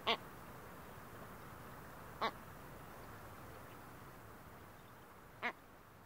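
A bird giving short, sharp nasal calls, three times a couple of seconds apart, over a steady background hiss that slowly fades.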